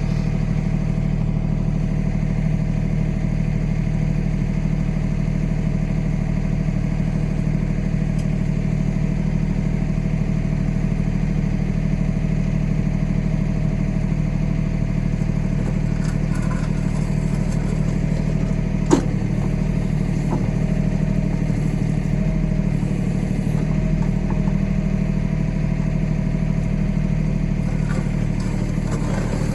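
Kioti tractor's diesel engine running steadily at a constant speed, with a single sharp knock about two-thirds of the way through.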